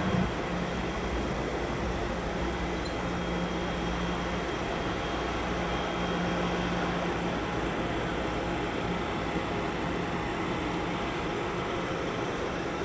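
Train running at trackside, a steady rumble with a low diesel hum that comes and goes.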